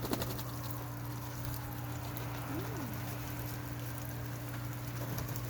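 Garden sprinkler spraying water in a steady, rain-like patter, over a steady low hum.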